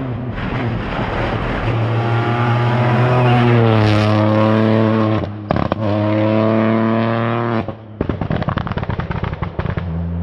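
Rally car engine accelerating hard, its pitch climbing, with a brief break for a gear change about five seconds in. Near the end the throttle lifts and the exhaust gives a rapid run of pops and crackles before the engine pulls again.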